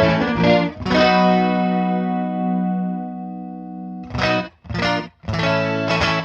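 Electric guitar with light overdrive, played through the Big Ear Pedals Albie multi-effect on its first preset, a slapback-style delay with chorus. Two short chords, then a long chord left ringing for about three seconds, then three short stabbed chords near the end.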